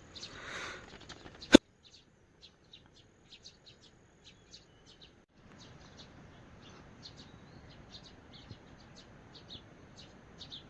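Small birds chirping, many short high calls repeated throughout, over a faint steady background hiss. A single sharp, loud click about a second and a half in.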